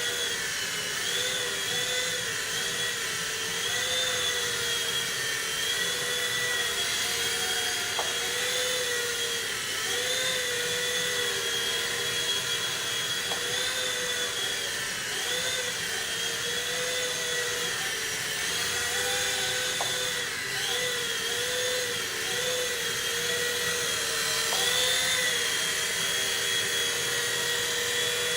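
V911 micro RC helicopter in flight: the high, steady whine of its small electric motor and rotor, its pitch dipping and rising every few seconds as the throttle is worked.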